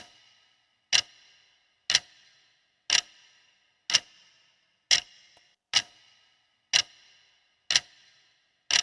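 Countdown timer ticking once a second, sharp clock ticks with a short metallic ring, marking the time allowed to answer a quiz question.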